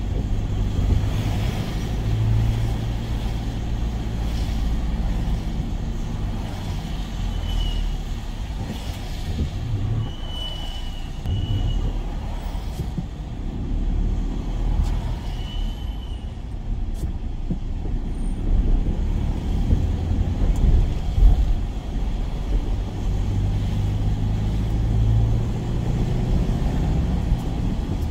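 A work van running with a steady low rumble of engine and road noise. A few brief, faint high squeaks come through about a third of the way in and again a little past halfway.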